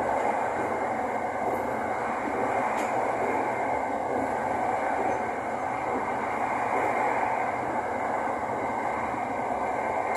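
Inside a SRT Light Red Line electric commuter train running at speed: a steady rolling noise of wheels on rail and carriage running gear, unbroken throughout.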